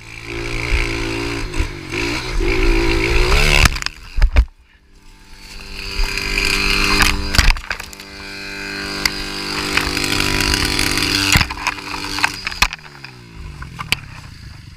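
Small pit bike engine revving hard under throttle. About four seconds in come a couple of sharp knocks and a brief lull, then the engine climbs again. Near the end it winds down with falling pitch.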